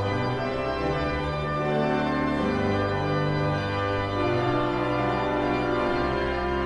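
Church organ playing slow, sustained chords, the bass notes changing every second or so.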